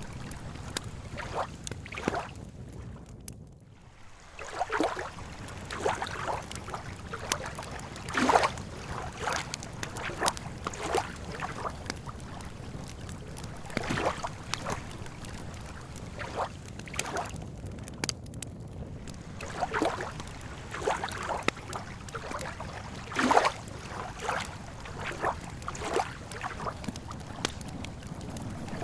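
Small waves lapping and slapping against the lakeshore at irregular intervals, over a steady low rumble, with some sharper crackles from a campfire.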